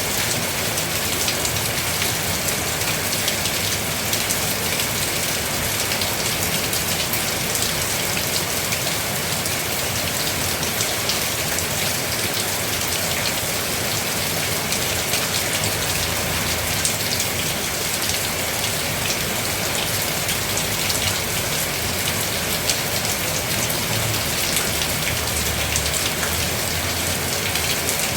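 Steady heavy rain falling: a dense, even hiss of rain with many sharp ticks of single drops striking surfaces.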